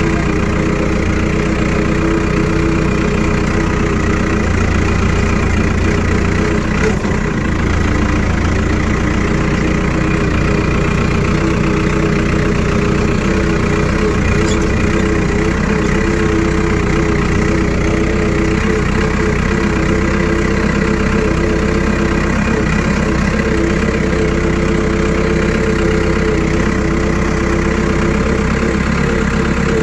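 Tractor engine running steadily at a constant speed, with a continuous even drone and no change in pitch.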